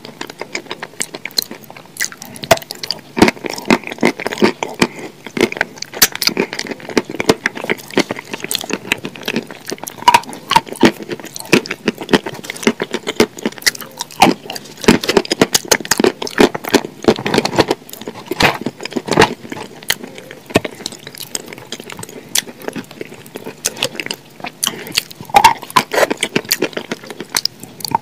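Close-miked eating of sauce-dipped KFC fried chicken: biting and chewing, with dense crackling crunches and wet mouth sounds.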